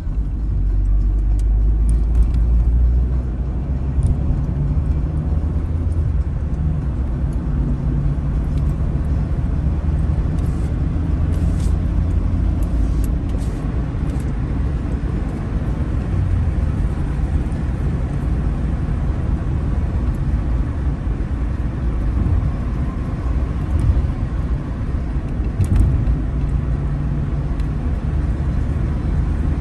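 Car driving along a road: a steady low rumble of engine and tyres, heard from inside the car, with a few light clicks or knocks in the middle and near the end.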